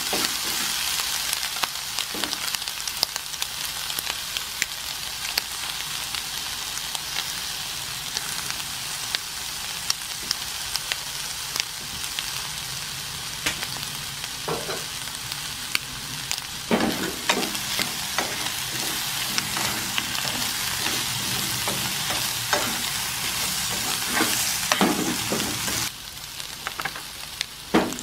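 Winged beans and sausage sizzling in a mayonnaise coating in a hot frying pan while being stir-fried, with scattered clicks and knocks of wooden chopsticks against the pan. The sizzle drops a little in the last couple of seconds.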